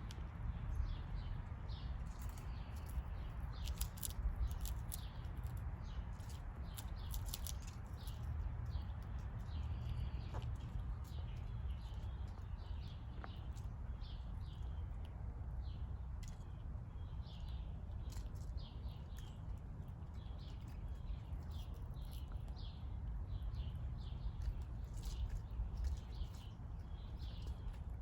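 Backyard songbirds chirping, many short high calls repeated one after another, over a steady low rumble. A few sharp clicks come in the first several seconds.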